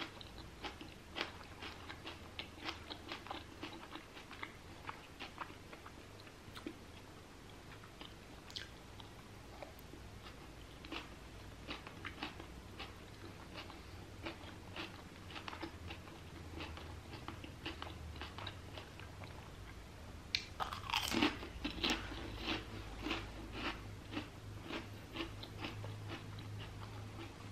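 A person chewing a bite of a rice paper roll filled with lettuce and fish: a steady run of small wet mouth clicks and crunches, a few a second, louder for a second or two about twenty seconds in.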